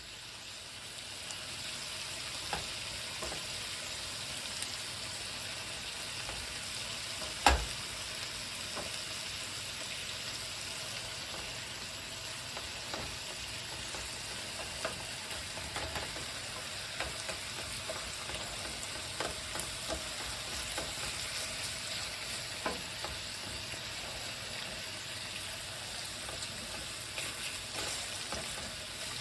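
Sliced bacon sizzling steadily as it fries, with scattered small pops and one sharp knock about seven and a half seconds in.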